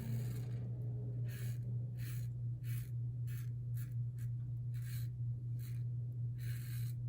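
Brass Karve safety razor with a Gillette Nacet blade scraping through lathered stubble in short, separate strokes, about one or two a second, over a steady low hum.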